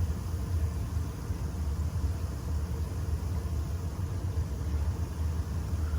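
A steady low rumble with a faint hiss, even in level throughout.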